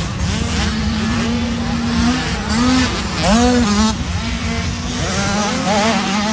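Several 50cc two-stroke youth motocross bikes racing, their engines revving up and down on and off the throttle. A sharp rising rev comes about three seconds in.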